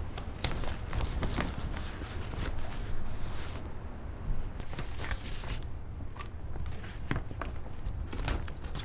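Irregular knocks, clicks and rustling over a steady low rumble, denser in the first few seconds.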